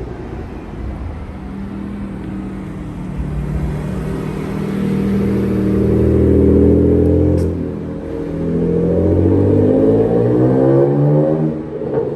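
BMW E93 335i's turbocharged straight-six, breathing through a GruppeM intake and an Energy exhaust, revving up under load. The pitch climbs, drops briefly a little past halfway, climbs again, then falls away near the end.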